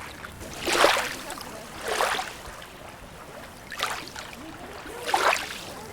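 Small sea waves lapping and splashing at the shoreline, four short washes in quick succession over a steady background of moving water.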